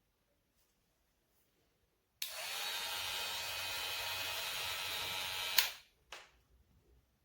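GLAKER cordless hair clipper switched on about two seconds in and running with a steady buzz for about three and a half seconds, then switched off with a click; a second short click follows.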